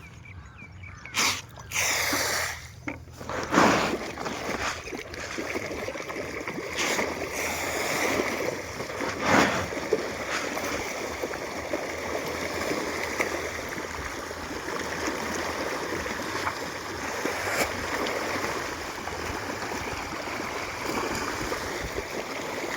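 Pond water splashing and churning as fish, carp among them, feed at the surface on thrown feed. There are a few sharper splashes in the first four seconds and one more about nine seconds in, then steady splashing.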